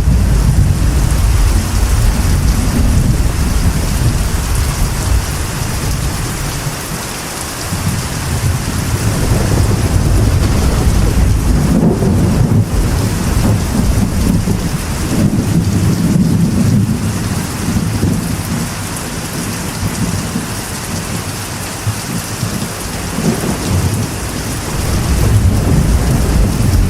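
Steady rain drumming on a metal roof, with rolling thunder rumbling low underneath, swelling and fading several times.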